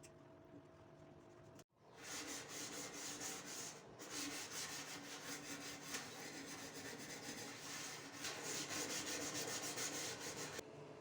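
Fast back-and-forth scrubbing on a kitchen surface, a dense run of rubbing strokes. It starts about two seconds in and stops shortly before the end.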